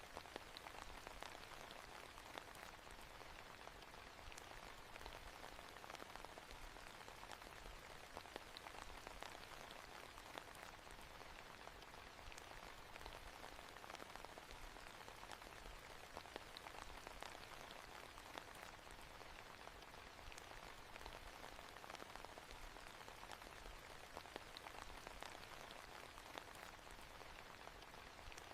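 Faint, steady rain, with many small drops ticking against a soft hiss.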